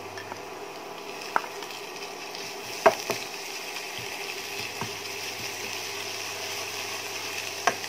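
Sliced onions frying in oil in a non-stick wok, a steady sizzle, as ginger-garlic paste is added and stirred in with a wooden spatula. A few sharp knocks sound against the pan.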